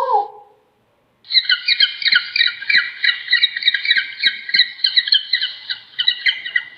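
A bird's rapid, high-pitched chattering squawks, several calls a second, starting after a short gap about a second in.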